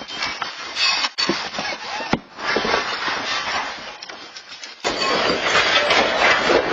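Earthquake shaking a building: a dense rattling and clattering of its contents, with sharp knocks about one and two seconds in. It eases off, then turns abruptly loud again about five seconds in.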